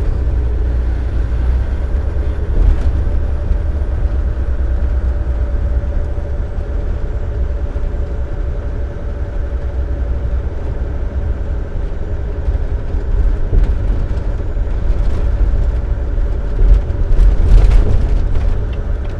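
Dump truck running at highway speed, heard from inside the cab: a steady engine and road drone. A few knocks and a louder stretch come near the end.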